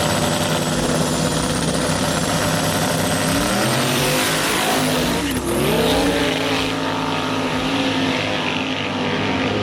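Drag-race cars running hard down the strip, their engine note loud and steady with a thin high whine over it; the engine pitch swings up and down about four to six seconds in, then holds.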